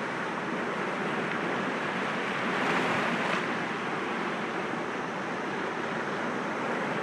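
Sea waves breaking gently against rocks: a steady rush of surf that swells as a wave breaks about three seconds in.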